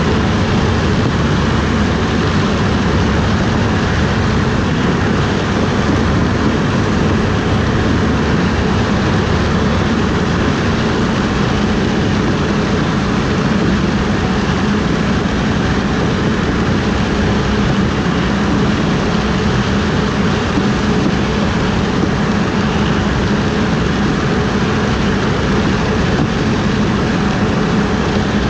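Harvest machinery running steadily while harvesting corn: a loud, unchanging drone with a low hum.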